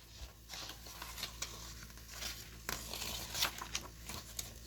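Pages of a paper picture book being handled and turned: irregular soft rustling and crinkling.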